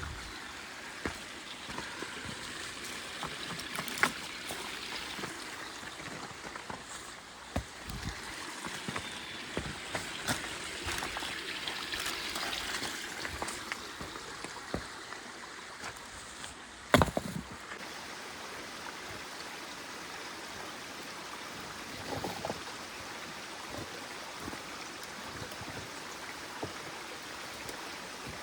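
A small stream running steadily, with scattered knocks and clicks over it, one sharp knock loudest about halfway through.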